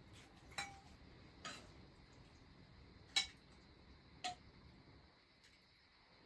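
Tableware clinking on metal dishes during a meal: four light, ringing clinks spread over a few seconds, the third the loudest.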